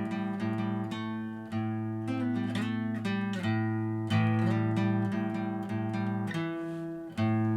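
Acoustic guitar playing out the end of a song, strummed and picked chords ringing, with no singing.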